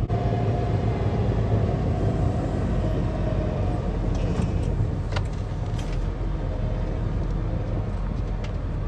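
Vehicle engine running steadily with a low drone, driving along.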